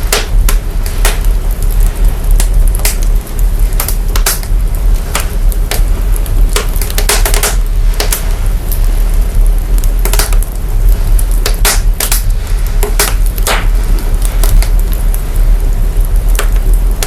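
Crackling wood fire, its recorded sound heavily processed: a steady deep sub-bass rumble under irregular sharp crackles and pops, about one or two a second.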